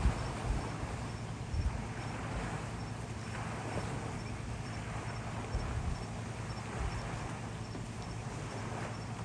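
Strong wind of about 22 knots blowing steadily, buffeting the microphone with low thumps a few times.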